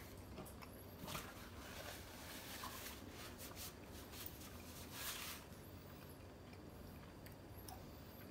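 Faint chewing of a mouthful of crunchy tostada with a fried corn tortilla shell, with a few soft crunches about one, three and five seconds in.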